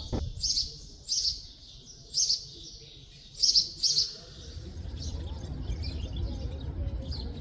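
A small bird chirping: a series of short, high chirps, loudest and most spaced in the first four seconds, then fainter and quicker, over a low background rumble.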